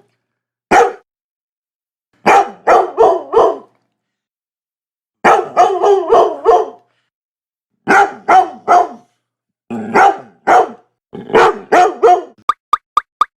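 A dog barking in quick bursts: a single bark, then several groups of three to six barks with short pauses between them. Near the end, a fast, even run of short pops, about six a second, takes over.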